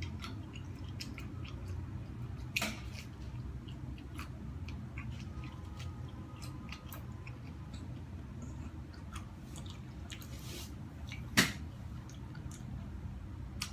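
A person biting and chewing corn on the cob: scattered small crunching clicks of kernels, with a sharper click about two and a half seconds in and the loudest one near the end, over a low steady hum.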